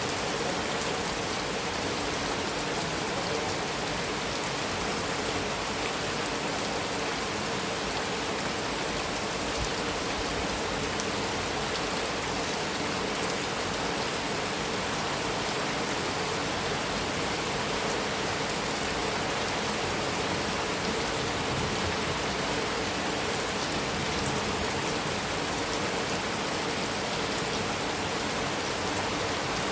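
Heavy rain falling steadily on a metal roof, a dense, even hiss of drops with no thunder.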